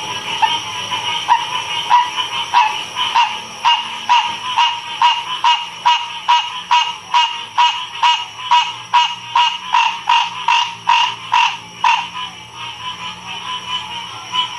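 Frog chorus: one frog calling close by in a long series of short, evenly spaced notes, about three a second, for roughly ten seconds before it stops. A steady chorus of other frogs continues beneath it.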